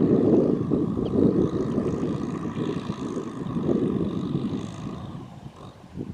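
Tractor engine running steadily, fading out toward the end.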